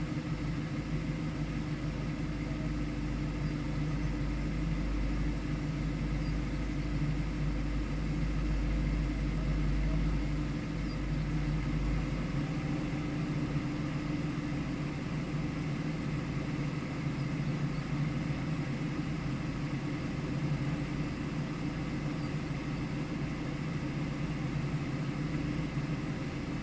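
A vehicle's engine idling steadily, an even low hum that hardly changes.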